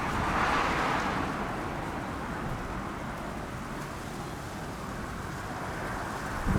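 Wind blowing on the microphone: a steady rushing noise with low, uneven buffeting, a little louder about half a second in.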